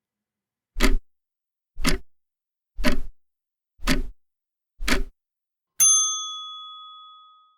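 Countdown sound effect: five clock-like ticks about a second apart, then a single bell ding that rings out and fades slowly. It marks the time to answer a trivia question.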